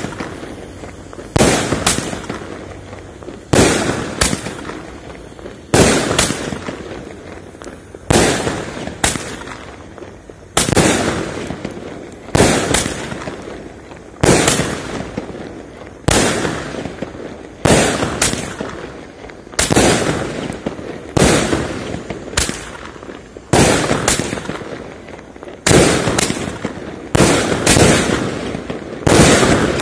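Slow-firing 21-shot consumer fireworks cake going off shot after shot. There is a sharp bang about every one and a half to two seconds, each fading out before the next.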